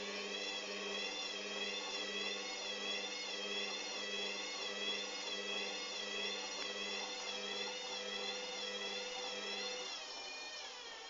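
Hoover Dynamic washing machine's motor and drum whining through a spin, with a regular wobble in pitch that fits a drum spinning an unbalanced load. Near the end the lower hum cuts out and the whine glides down as the drum slows.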